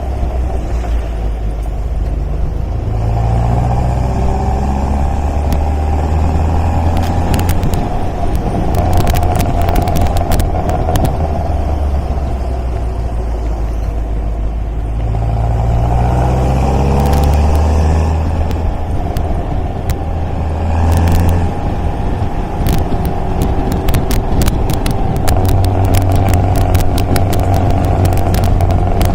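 MGA roadster's four-cylinder engine pulling under load on the road, its pitch climbing through several accelerations and dropping back between them, with scattered sharp clicks over the engine note.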